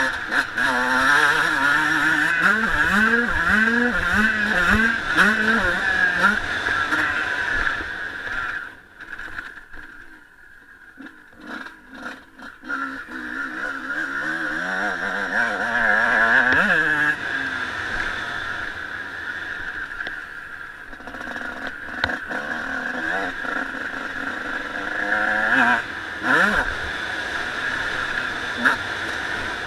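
Honda CR125 two-stroke single-cylinder motocross engine revving hard, its pitch climbing again and again through quick gear changes. About a third of the way in the throttle comes off and it goes quieter for a few seconds, then it picks up and revs out again.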